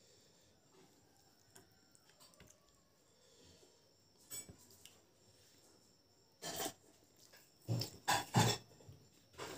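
Close-miked eating by hand. Light clicks and scrapes of fingers mixing rice on a plate come first. About six and a half seconds in, loud wet chewing and mouth noises start as a mouthful of boiled pork fat and rice is chewed.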